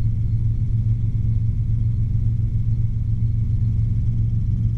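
Robinson R22 helicopter in flight, heard from inside the cabin: a steady low drone of engine and rotors with no change in pitch or level.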